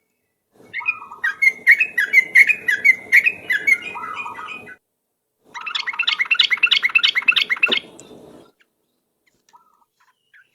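Yellow-vented bulbul singing in rapid, chattering bursts (ropel song): one phrase of about four seconds, then after a short pause a second, faster run of notes lasting about three seconds.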